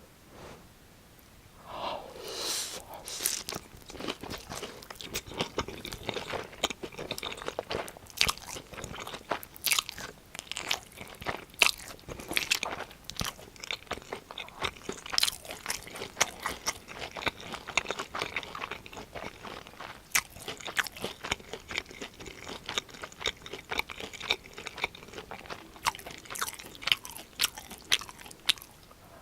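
Close-miked biting and chewing of crispy breaded cheese pork cutlet: dense, irregular crunching and crackling that starts about two seconds in and keeps going.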